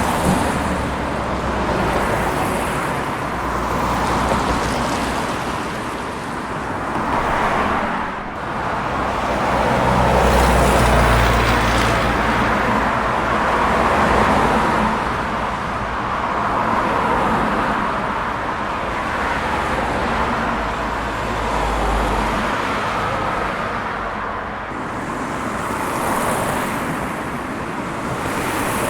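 Steady rushing noise of a white-noise sleep track, swelling and fading every few seconds, with a low rumble underneath.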